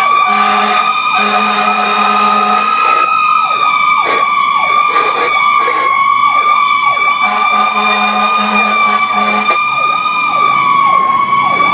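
Fire engine running with its sirens on: a loud, steady high wail that drifts only slightly in pitch, over a rapid repeating yelp. A low horn sounds in short pulses over the first few seconds and again from about seven seconds in.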